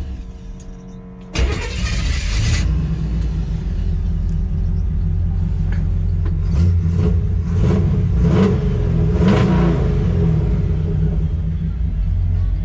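A 1957 Chevrolet 3100 pickup's 350 V8 starts about a second and a half in, catching with a loud burst. It then settles into a steady, rumbling idle, with four short throttle blips in the middle.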